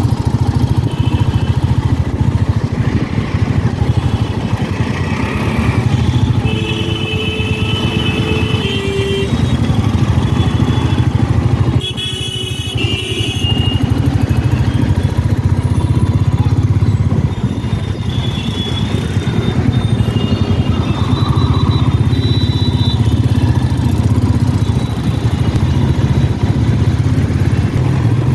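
Royal Enfield Meteor 350's single-cylinder engine running steadily as the motorcycle is ridden, its low exhaust note dropping briefly about twelve seconds in.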